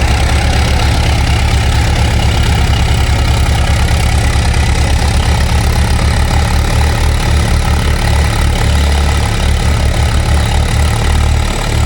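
Tractor engine running steadily, with a low, rapid thudding beat.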